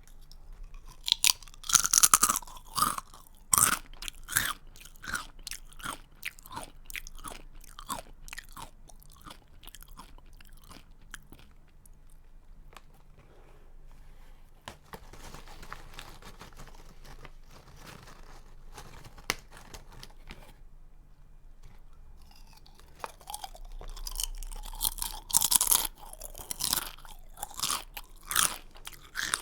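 A person biting into and chewing a crunchy snack close to the microphone. Loud crunching bites come in clusters in the first few seconds and again near the end, with softer, steadier chewing in between.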